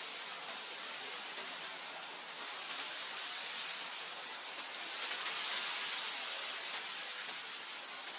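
Wind blowing across grassland: a steady, airy hiss with no tones, swelling to a louder gust about five seconds in and then easing.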